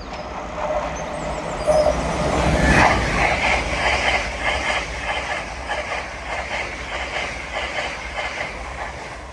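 A pair of LNER Class 801 Azuma electric trains passing at speed. The steady rush of wheels on rail swells about two to three seconds in, and a fast, regular clatter of the wheels then runs on and slowly fades.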